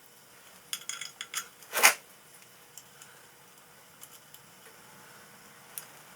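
Small metal parts or tools being handled on a workbench: a quick run of light clinks, then one louder clunk about two seconds in, followed by a few faint ticks.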